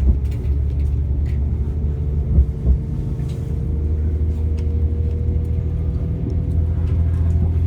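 Passenger train running, heard from inside the carriage as it pulls away from a station: a steady low rumble with a faint whine that rises slightly in pitch, and a couple of knocks about two and a half seconds in.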